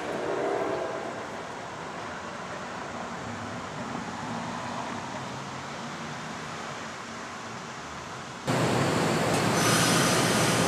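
Steady distant rumble of a passenger train pulling away down the line, with a car going by close at the start. About eight and a half seconds in, the sound cuts abruptly to a much louder close-up passing train: NJ Transit double-deck coaches rolling by.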